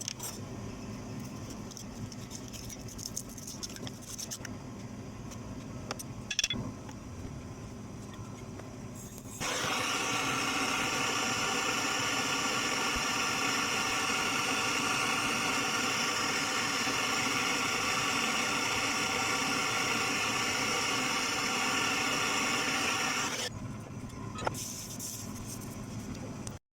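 A steady mechanical sound with a whine of many tones starts abruptly about nine seconds in and cuts off suddenly about fourteen seconds later, over a quieter background with scattered clicks and taps.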